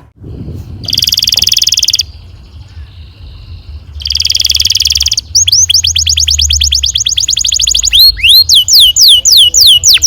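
Domestic canary singing long rolling song: two rapid buzzy trills, then a fast run of falling whistled notes that slows into looping swoops near the end.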